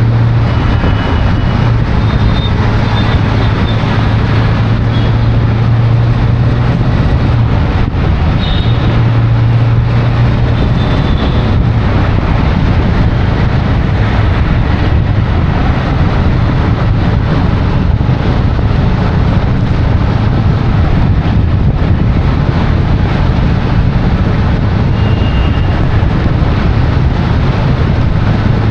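Steady road-vehicle noise: a constant rush of traffic and tyres under a low engine hum, with a few short high-pitched tones scattered through it.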